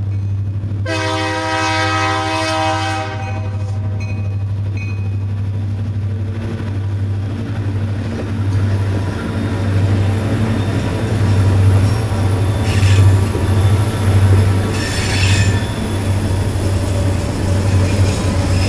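Diesel freight locomotives of a coal train passing close by: the lead unit sounds its horn in one long blast about a second in, then the engines' low drone and the rumble and clatter of wheels on the rails grow louder as the units go by, with brief squeals from the wheels twice near the end.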